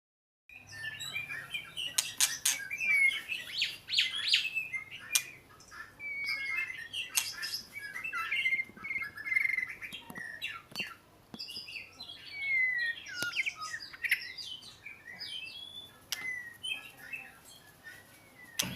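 Oriental magpie-robin singing: a long, varied run of whistled phrases, sliding notes and chirps, with a few sharp clicks mixed in.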